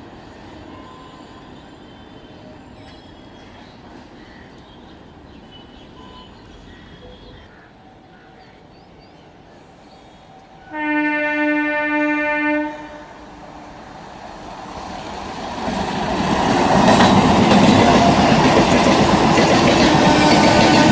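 Indian Railways EMU local train sounding a steady horn for about two seconds, just past halfway. It then approaches and runs past close by: the rumble and clatter of wheels on rail build over a few seconds and stay loud to the end.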